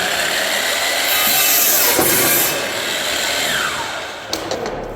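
Power saw cutting through a wooden framing board. The motor whines up, the cut is loudest about a second or two in, and the motor winds down near the end.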